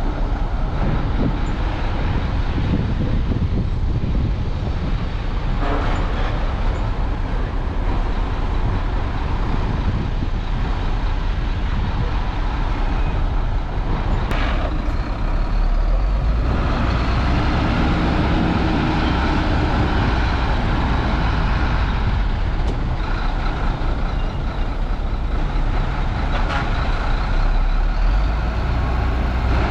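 Heavy diesel earthmoving machinery, a bulldozer and dump trucks, running steadily under load, with the low engine note growing heavier partway through. There is a brief sharp sound about halfway in.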